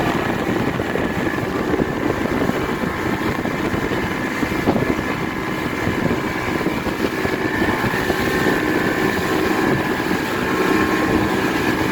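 Motorboat under way, its engine running steadily with a rush of wind and water noise.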